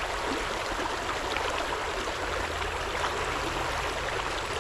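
Creek water flowing steadily past, an even rushing hiss of current.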